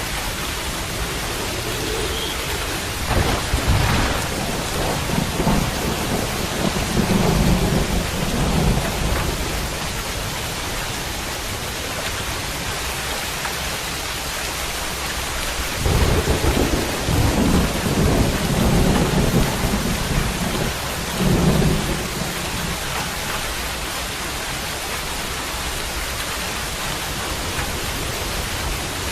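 Steady, heavy rain hissing, with two long rolls of thunder rumbling through it, one a few seconds in and one just past the middle.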